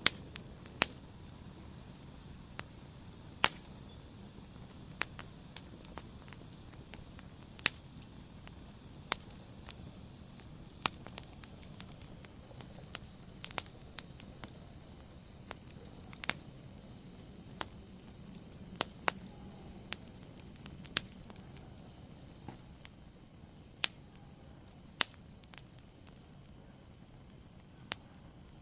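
Wood fire crackling in a fireplace: sharp, irregular pops every second or two over a soft, steady rush of burning.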